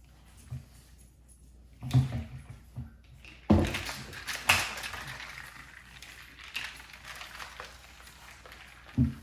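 A few short knocks and thuds, about four, with quieter rustling between them, as items are handled and set down while a drink is being made in the kitchen.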